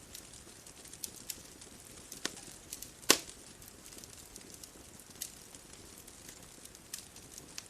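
Bonfire crackling: scattered sharp pops and snaps at uneven intervals over a soft steady hiss, the loudest pop about three seconds in.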